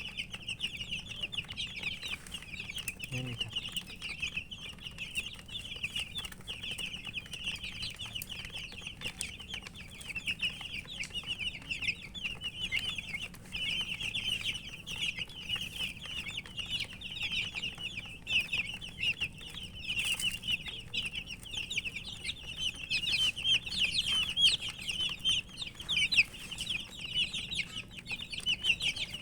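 A crowd of baby chicks peeping, many short high chirps overlapping into a steady chorus.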